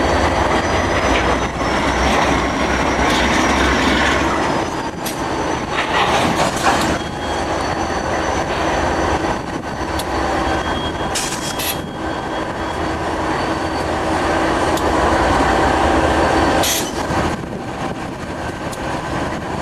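Southern Pacific train rolling on the rails: a steady rumble of steel wheels with faint high wheel squeal and scattered sharp clicks and knocks. The deep low rumble drops away about five seconds in.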